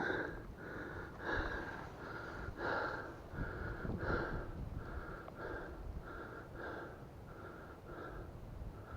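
A man panting after exertion: quick, even breaths, about one every half second or so. He is out of breath from chasing and crawling through thick brush to retrieve a shot pheasant.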